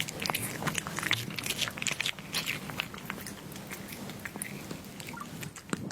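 A cat chewing and biting into food, with rapid, irregular crunchy clicks.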